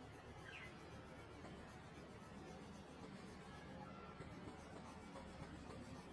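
Near silence: a faint steady hiss with faint scratching of colouring strokes on paper.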